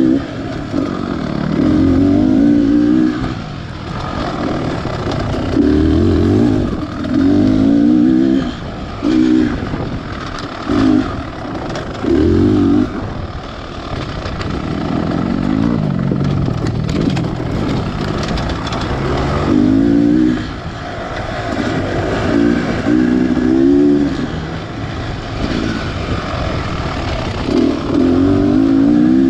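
Beta Xtrainer 300 two-stroke dirt bike engine under riding load, throttled in repeated short bursts, its pitch sweeping up with each burst and dropping back between them.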